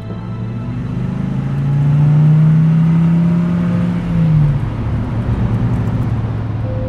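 A car engine running with a low hum; it grows louder about a second and a half in and drops away about four and a half seconds in.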